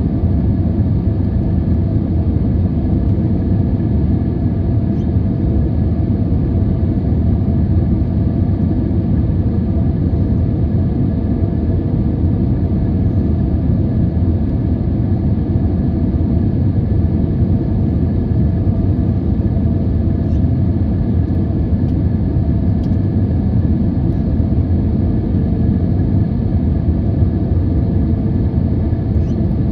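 Boeing 737-800 noise: a loud, steady low rumble with a few faint steady tones over it, holding the same level without rising or falling.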